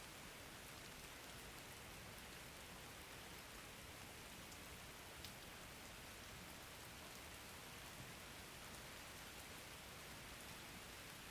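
Faint, steady rain: an even hiss of falling rain with a few single drop ticks.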